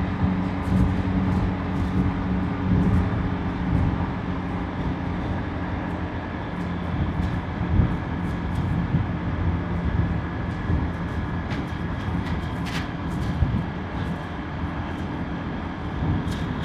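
Motorbike engine running steadily at cruising speed, with continuous tyre and wind noise heard from the rider's seat. A few faint, brief higher-pitched sounds come about three-quarters of the way through.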